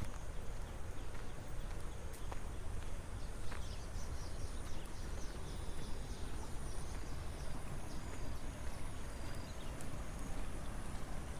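Rice-field ambience. A low, steady rumble of wind on the microphone runs under a faint, thin, steady high tone. From about two to nine seconds in, a run of quick, high bird chirps sounds, with a few light footstep clicks on the path.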